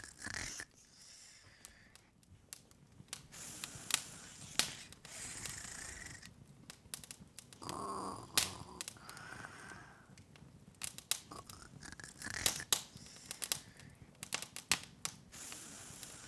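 Open wood fire crackling: irregular sharp pops and snaps over a soft hiss.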